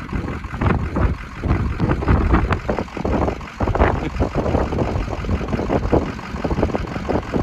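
Gusty wind buffeting the microphone, a loud irregular low rumble that swells and drops.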